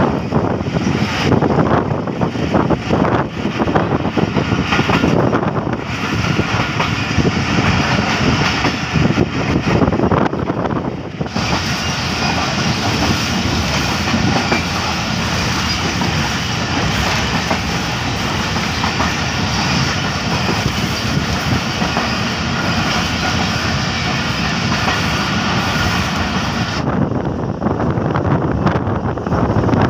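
Passenger train running at speed, heard from an open coach window: wheels clattering over the rails amid rushing air and wind on the microphone. The sound turns steadier and hissier about a third of the way in, and choppy again near the end.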